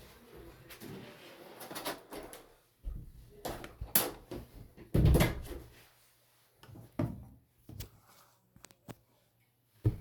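A door being shut: scattered knocks and clicks, a sharp click about four seconds in and a heavy thump about a second later, then a few lighter clicks.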